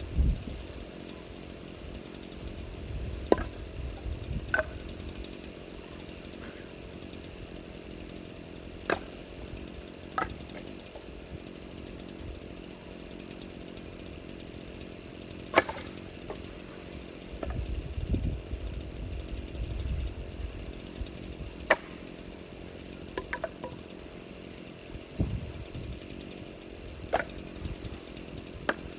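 A small engine running steadily, with sharp knocks every few seconds and spells of low rumbling.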